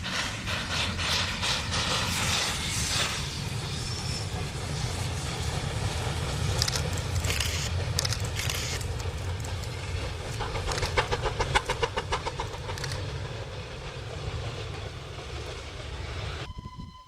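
Steam locomotive working past at close range: a heavy rumble with rhythmic beats that quicken and grow loudest around the middle. The sound cuts off abruptly near the end.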